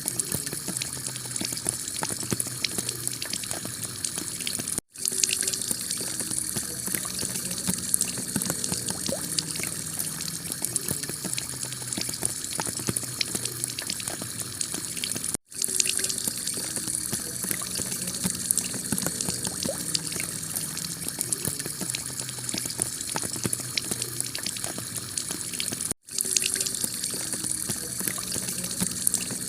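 Heavy rain pelting a clay tile roof: a dense steady hiss full of drop ticks. It cuts out for an instant three times, about ten seconds apart.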